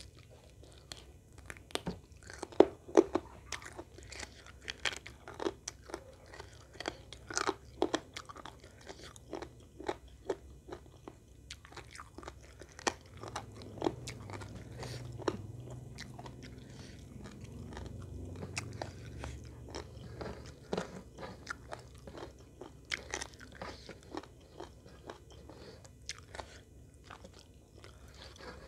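Close-miked eating: a person biting and chewing chicken cooked in sweet soy sauce, with a dense run of wet smacks and crunchy clicks. The loudest bites come a few seconds in.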